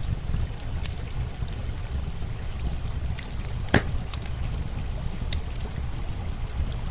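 Campfire crackling with scattered sharp snaps and one loud pop about midway, over the steady rush of running water.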